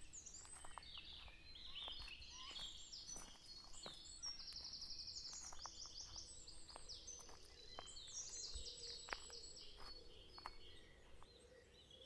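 Faint birdsong: several birds chirping, with quick trilled runs of high notes, over soft scattered rustles and steps in undergrowth.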